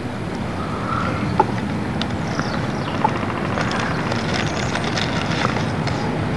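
Steady low rumble of a running vehicle, with a few light clicks and ticks over it.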